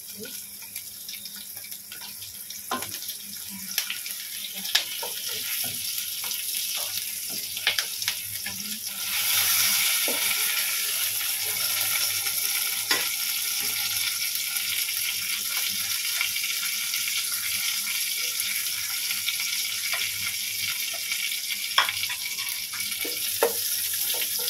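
Stuffed green chilies frying in oil in a wok: a steady sizzle that gets louder about nine seconds in, with scattered clicks and scrapes of a spatula against the pan.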